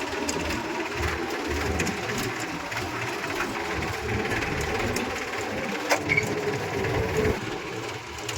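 A tractor's diesel engine running while the tractor drives along: a steady clattering drone heard from the driver's seat, with one sharp click about six seconds in.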